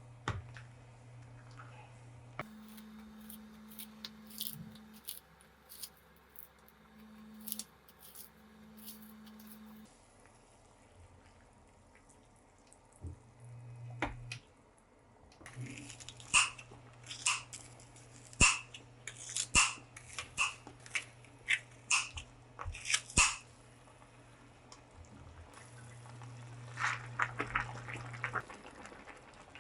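A quick run of sharp clinks and taps of kitchenware, each ringing at the same few pitches, over a steady low hum.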